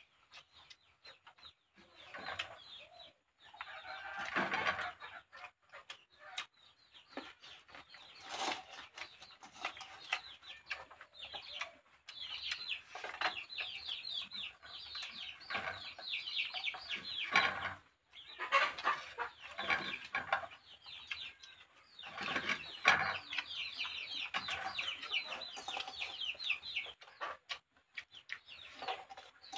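Birds, likely poultry, calling in long runs of rapid, short high chirps that go on for several seconds at a time.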